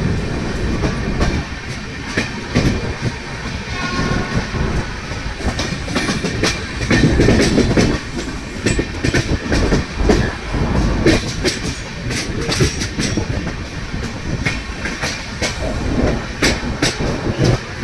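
Passenger train running along the track: a heavy rumble with wheels clattering in irregular clacks over the rail joints.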